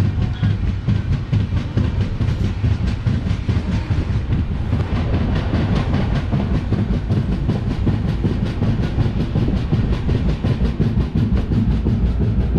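Express train coaches running at speed, heard from an open doorway: a steady rumble of wheels on rails with a fast, even rattle of about five beats a second.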